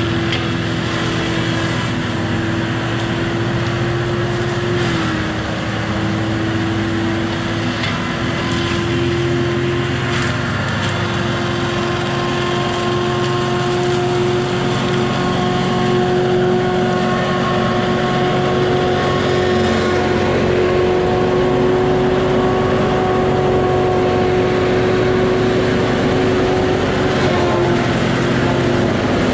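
Diesel engine of a heavy logging machine running steadily, with a steady high whine over it that dips briefly in pitch about five seconds in and again near the end.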